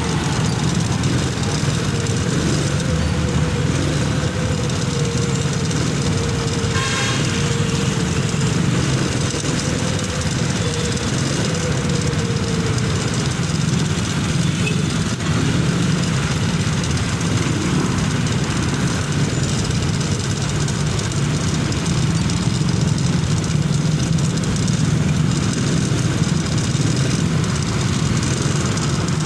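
Motorcycle engine running steadily under an even wash of noise, with a faint tone slowly falling in pitch during the first half and one brief sharp sound about seven seconds in.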